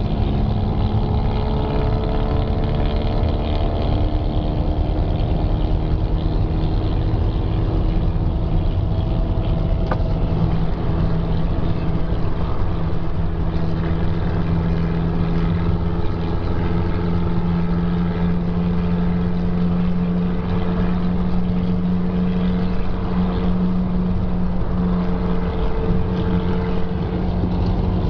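Monster truck's engine running continuously at a fairly steady pitch that eases down over the first several seconds.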